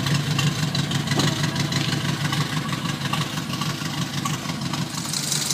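Triumph TR4's four-cylinder engine idling with an even beat, a steady low drone. A higher hiss grows stronger near the end.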